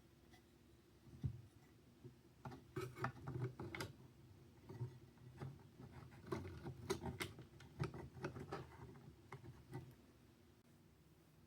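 Faint, irregular clicks, taps and light knocks of computer parts being handled and fitted to a motherboard.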